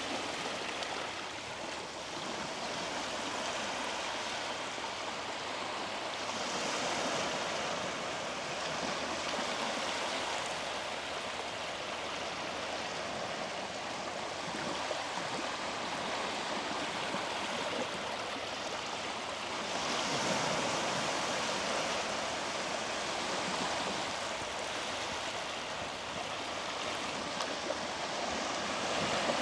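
Sea waves washing onto the beach in a continuous rush of surf, with two louder surges, one about six seconds in and one about twenty seconds in.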